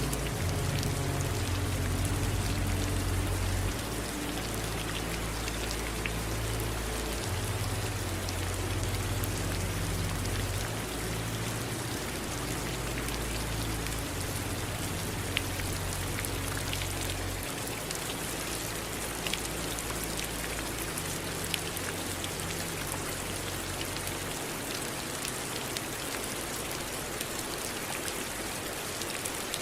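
Steady rain falling, an even hiss dotted with the ticks of single drops, with a low hum underneath that changes pitch in steps every few seconds.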